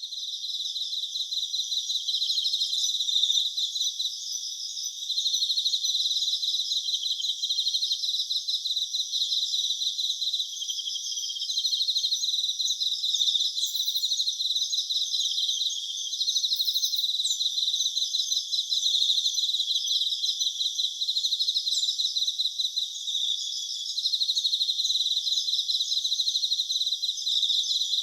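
A chorus of crickets chirping: a dense, high-pitched pulsing trill that swells and eases every second or two.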